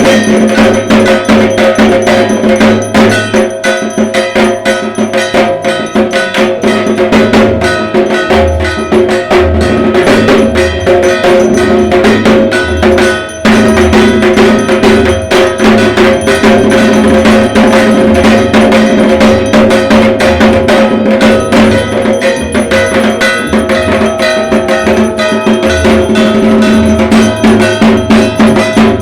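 Dhak drums beaten with sticks in a fast, unbroken rhythm of Durga Puja drumming, with ringing metal percussion struck along with them. The playing dips briefly about halfway through, then carries on.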